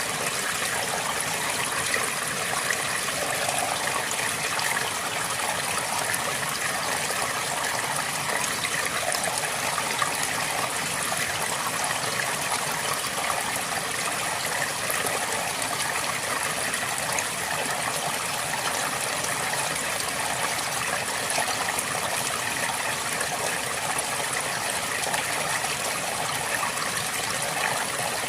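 River water flowing steadily over stones, a constant even rush and babble.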